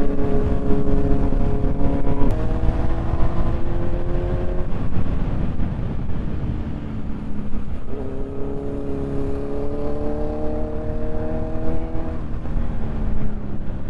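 Motorcycle engine under way, its pitch climbing in each gear and dropping at shifts about two seconds in and near the end, with a lull of lighter throttle in the middle. Heavy wind rumble sits underneath.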